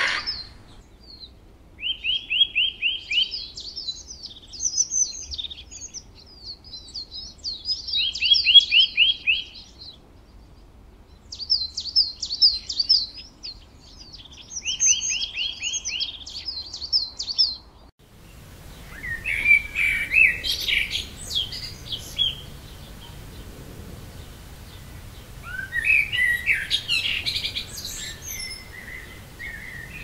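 Birds singing: a phrase of rapid trills and chirps recurs every few seconds. After a cut about eighteen seconds in, two bursts of different, busier chirping follow.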